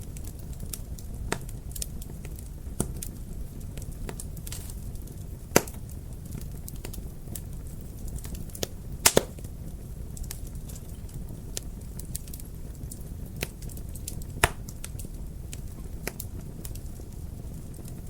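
Wood fire crackling in a fireplace: a steady low rumble with frequent small clicks and occasional sharp pops. The loudest is a single pop about five and a half seconds in, then a quick double pop about nine seconds in.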